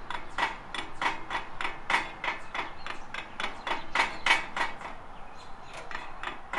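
Rapid, steady hammer blows, about three or four a second, with a metallic ring. They are driving out a stuck steel pin that holds a spoke in a Ferris wheel. The blows pause briefly near the end and then start again.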